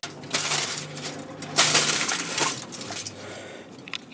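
Metal clinking and scraping in a few short bouts, as a 15mm wrench works the drain plug on the oil pan.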